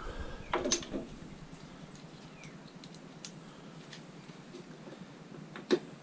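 A few light knocks and clicks from scrap being handled, the loudest cluster about half a second in and a couple more near the end, over a faint low hum.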